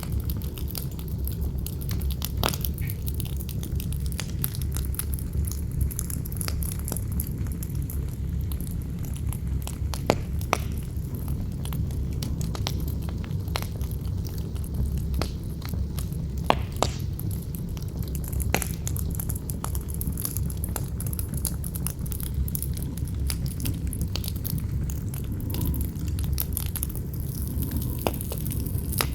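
Campfire burning, its wood crackling with scattered sharp pops, over a steady deep rumble of wind.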